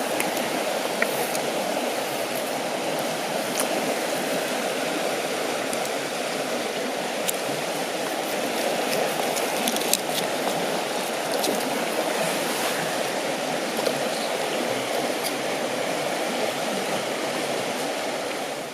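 River water flowing over stones: a steady, even rush, with a few faint clicks scattered through it.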